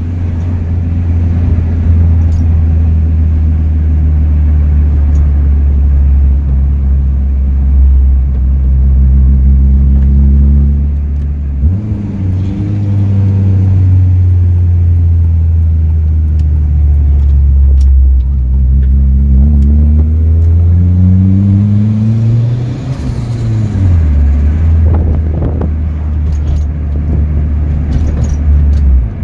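Turbocharged Honda D16Z6 SOHC four-cylinder engine heard from inside the Civic's cabin while driving. The engine note holds steady, then climbs in pitch twice under acceleration, the second climb ending in a sharp drop about 23 seconds in.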